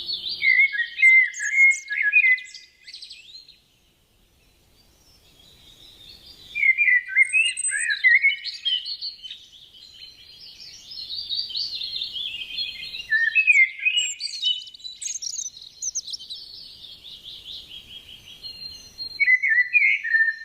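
A small hand-tamed pet bird chirping and chattering in quick, varied twitters. It stops briefly a few seconds in, then starts again in a long run of warbling chatter.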